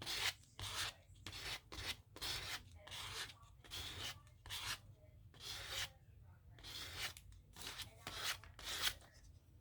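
Paper being rubbed in quick, repeated strokes, about two a second, as a paper cut-out is pressed down onto a collage page.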